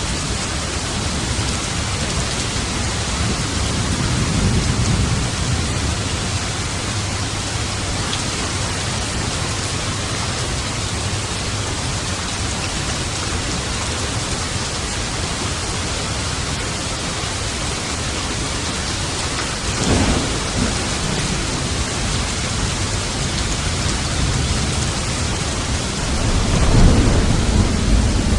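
Steady rain falling, with thunder: a low rumble about four seconds in, a sudden crack of thunder about twenty seconds in, and a louder rolling rumble building near the end.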